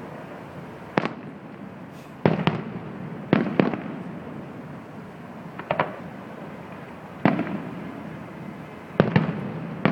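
Aerial fireworks bursting: a series of sharp booms a second or two apart, some in quick pairs, each trailing off in a short echo.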